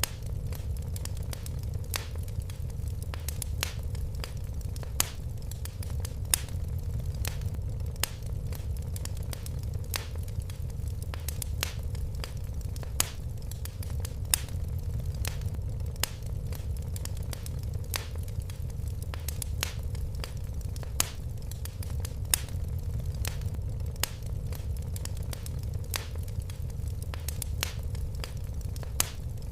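Fireplace fire crackling: irregular sharp pops, a few louder than the rest, over a steady low rumble.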